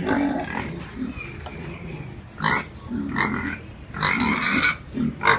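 Piglet making several short calls, the clearest about two and a half seconds in and again around four seconds in.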